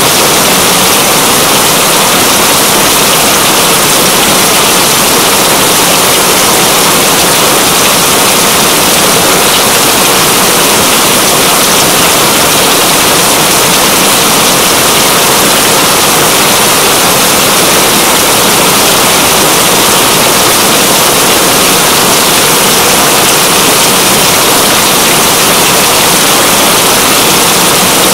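Steady heavy rain: a loud, even hiss that does not change.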